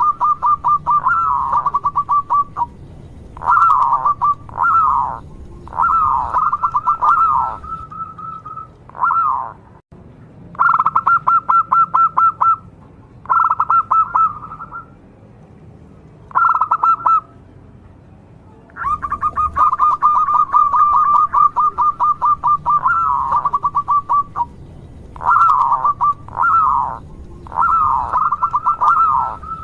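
Zebra dove (local perkutut) singing over and over: phrases of rapid, soft, pulsed cooing notes, each lasting a second or two, with short swooping notes in between and brief pauses between phrases.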